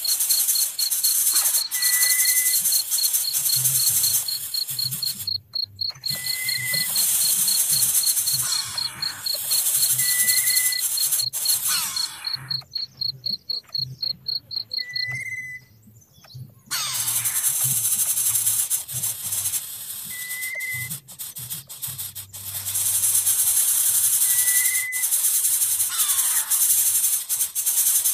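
Loud chorus of insects, such as cicadas and crickets: a hissing high buzz with a fast, even chirping pulse running under it. The buzz drops out for a few seconds in the middle. A short whistled note repeats about every two seconds.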